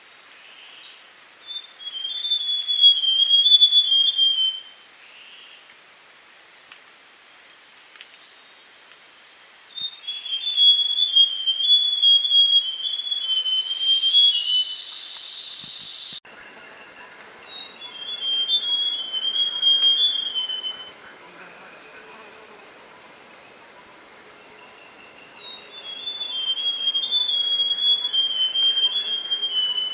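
Buff-brown scrub-robin singing: four short whistled phrases that wander up and down, several seconds apart. A steady high insect trill runs behind it and jumps louder partway through.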